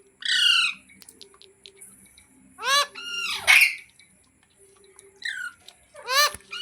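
Indian ringneck parrot giving a series of short, shrill calls that fall in pitch, in bursts of one to three.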